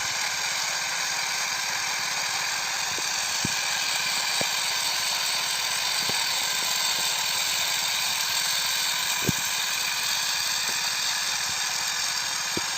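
Farm machinery running in a rice field, heard as a steady high-pitched whine with a few faint clicks.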